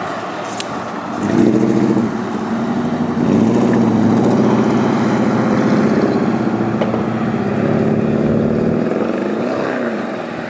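A motor vehicle's engine running close by over a steady rush of wind and road noise, its pitch shifting near the end.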